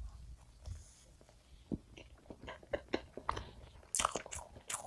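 Close-miked chewing of soft castella sponge cake topped with whipped cream: wet mouth clicks and smacks, sparse at first, with a louder run of clicks about four seconds in.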